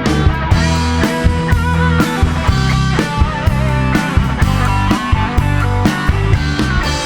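Rock band instrumental passage with no vocals: an Epiphone Les Paul electric guitar plays a melodic lead line with string bends over bass guitar and a steady drum beat.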